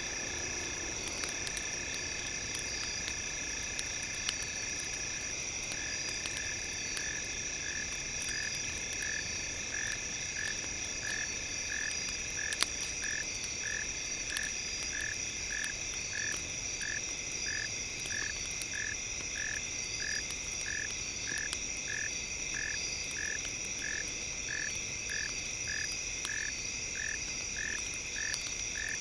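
Crackling campfire with several steady high electronic tones laid over it; about five seconds in, one tone starts pulsing on and off evenly, about one and a half pulses a second.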